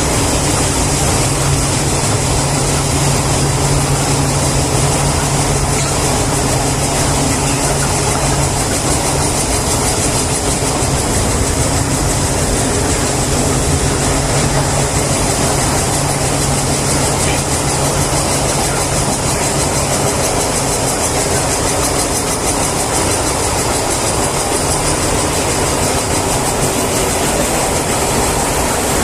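Steady, loud machinery noise with a low hum that drops out for a few seconds, comes back, then fades again.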